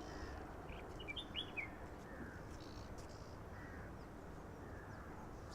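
Wild birds calling faintly: a quick cluster of short, high chirps about a second in, then a few fainter, more distant calls, over a steady low background hum of outdoor noise.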